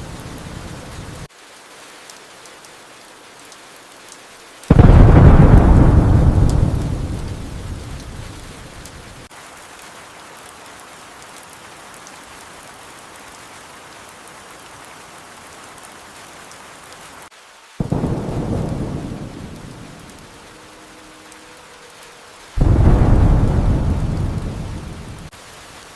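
Steady rain with three claps of thunder. The loudest comes about five seconds in and the other two near the end; each starts suddenly and rumbles away over a few seconds.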